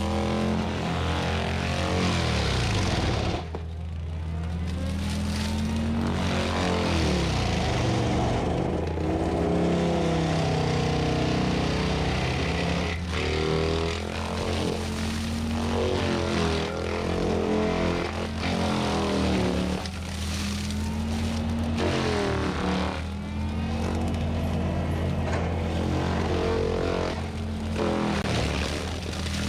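Cat 259D compact track loader's diesel engine working a forestry mulcher head, its pitch dipping and recovering over and over as the engine takes and sheds load, over a steady low hum.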